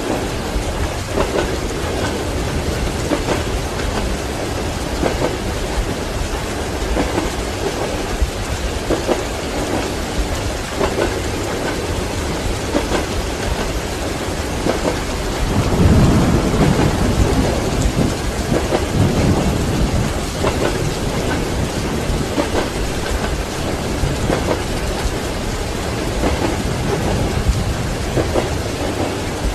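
Steady heavy rain with a roll of thunder swelling and fading about halfway through, over the faint rhythmic clatter of train wheels on rail joints.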